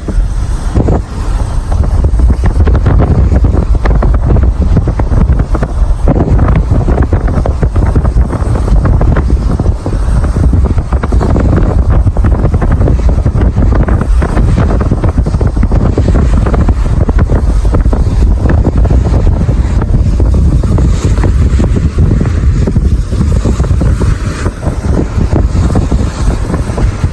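Intense straight-line thunderstorm winds from a gust front blasting the microphone: loud, constant low-pitched rumbling wind noise.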